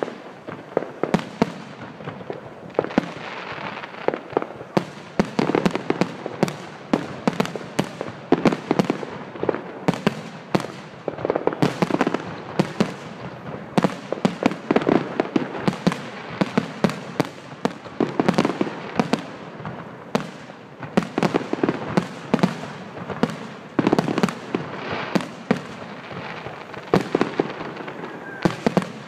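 Aerial fireworks display: shells bursting overhead in a rapid, continuous barrage of sharp bangs, several a second, over a steady din of the show.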